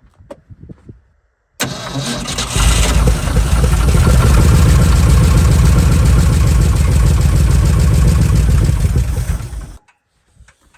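Old Ford F100's engine cranking and catching, then running steadily for about seven seconds before it cuts off suddenly. It is the first start after the spark plug wires were reset to the correct firing order for a counterclockwise-turning distributor rotor.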